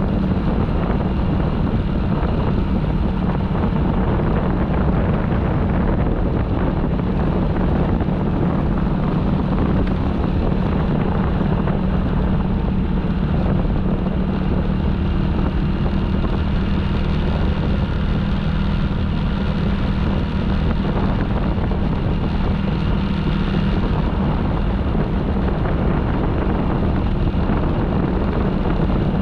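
Motorcycle engine running at a steady speed, with wind buffeting the microphone as the bike rides along. A steady, even hum and rumble, with no change in speed.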